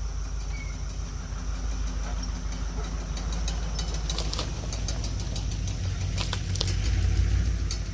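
A vehicle engine running steadily, with bursts of metal clanks and rattles a few seconds in and again near the end, where the engine grows louder.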